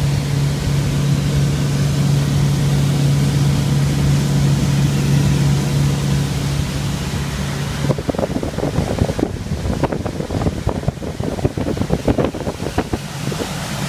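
Bayliner cruiser's engine running steadily underway, with wind and water rushing past. About eight seconds in the steady engine hum drops out and uneven, gusty wind and water noise takes over.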